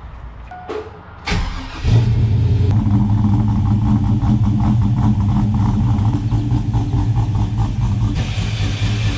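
A truck engine cranks briefly and fires about two seconds in, then runs steadily with a deep, loud hum.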